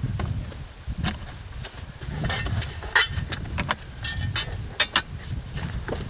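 Tools and gear being handled and moved about: a string of irregular clinks and knocks, the sharpest a little past the middle, over a low rumble of handling noise.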